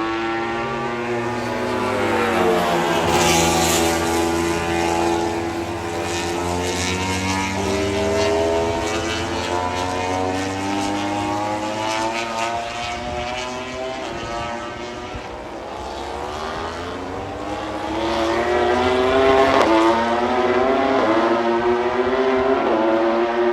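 A pack of Moto3 racing motorcycles, their 250 cc single-cylinder four-stroke engines braking and downshifting into a hairpin and then accelerating hard out of it, many engine notes overlapping with pitch dropping and then climbing. A second, louder group comes through near the end.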